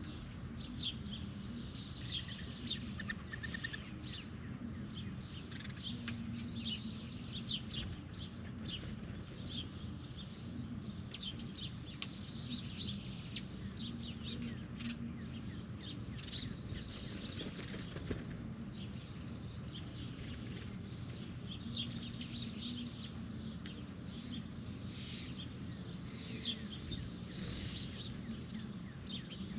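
Wild birds at a feeding spot chirping over and over, many short sharp chirps throughout, over a steady low hum.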